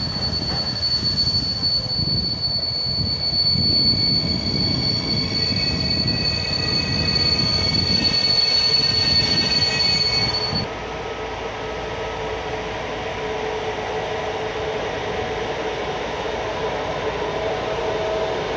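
Passing passenger train: a steady high-pitched wheel squeal over the rumble of rolling wheels, cutting off abruptly about ten seconds in. After that, a quieter steady rumble and hum of an approaching electric train.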